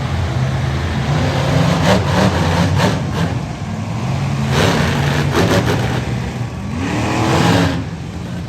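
Monster truck engine running loud and revving, its pitch climbing in a rev near the end.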